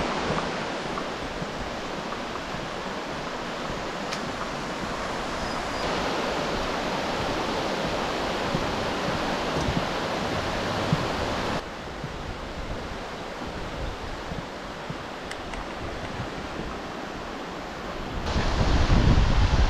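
Steady rushing of the River Greta flowing below, an even watery hiss. It drops a little about two-thirds through, and near the end wind buffets the microphone with a low rumble.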